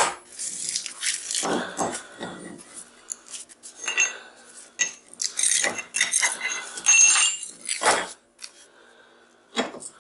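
Thin steel transformer core laminations clinking and scraping against one another as they are worked loose and pulled out of the core, in quick irregular metallic clinks with bright ringing, thinning out near the end.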